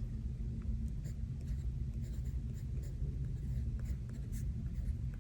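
Fountain pen writing on planner paper, faint short scratchy strokes, over the steady low rumble of a thunderstorm ambience track.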